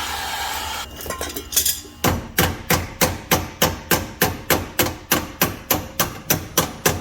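Gas torch hissing, shut off within the first second. Then, after a few light knocks, a steady run of hammer blows on the seized, torch-heated shock bolt, about three a second.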